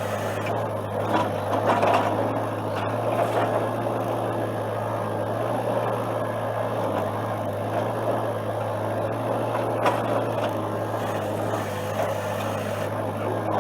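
Excavator engine running steadily, with a louder swell about a second and a half in.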